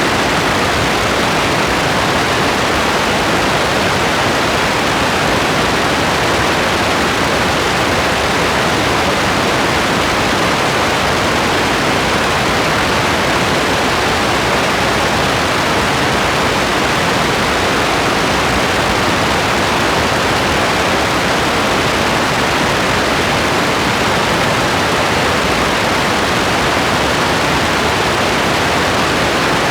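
Steady rain: an even, unbroken hiss at a constant level, with no separate drops or thunder standing out.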